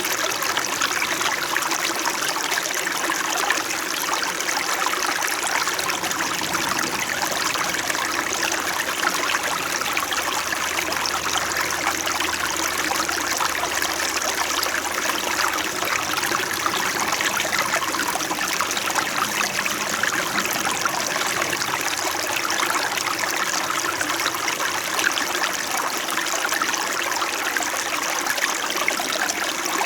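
A small stream flowing over rocks, a steady close babble and trickle of water.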